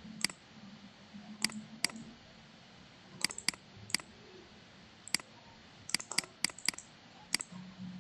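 Computer mouse clicking: about a dozen sharp single clicks at uneven intervals, some in quick pairs.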